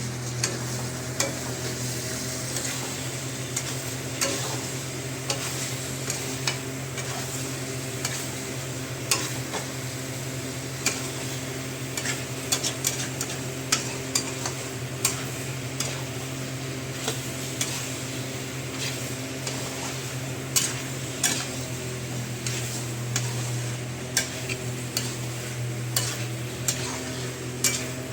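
Chicken curry masala sizzling in a pan while a spoon or spatula stirs it, scraping and clinking against the pan at irregular intervals many times over. A steady low hum runs underneath.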